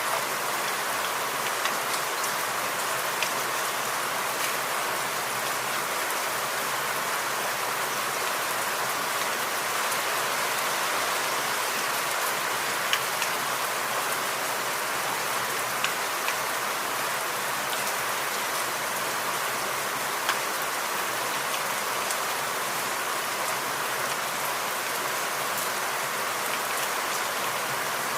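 Steady rain falling, with a few louder single drops tapping now and then.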